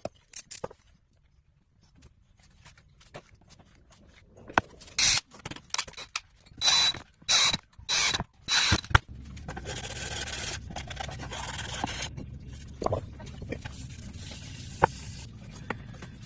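A tool scraping across wood: about six short, quick strokes, then two longer stretches of continuous scraping over a low steady hum.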